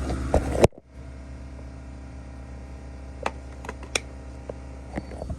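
Steady low hum with a brief clatter that cuts off abruptly under a second in, followed by a few faint clicks and taps.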